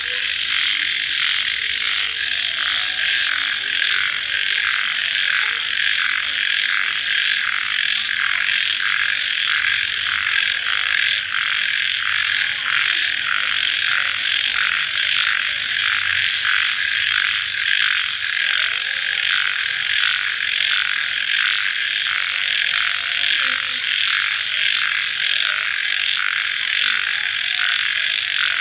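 Night chorus of crickets after rain: a dense, steady, fast-pulsing high trill, with fainter, lower wavering calls beneath it.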